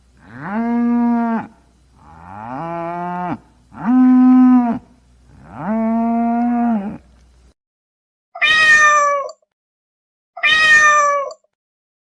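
A cow mooing four times in long, steady calls, followed by a cat meowing twice, higher and shorter, each meow falling in pitch.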